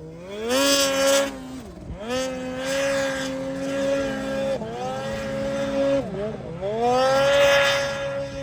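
Snowmobile engine revving hard. It climbs to high revs and holds them, and it eases off and winds up again about four times, as a sled does when it is ridden through deep snow.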